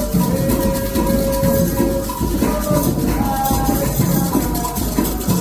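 Candomblé ritual music for Oxalá: hand drums played under continuous shaken rattles, with a few long held melodic tones over them.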